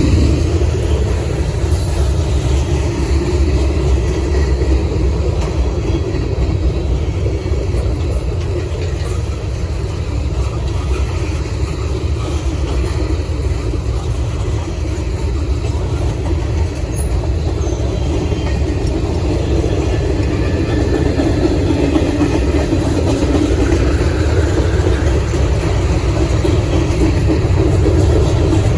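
Freight train rolling steadily past on the CSX main line: a continuous low rumble of rail cars on the track, easing a little midway and building again near the end.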